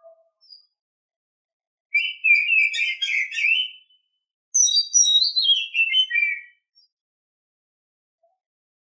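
Female oriental magpie-robin giving its mating song, used to stir males into breeding condition: two bursts of rapid, clear chirping, each about two seconds long, the second stepping down in pitch.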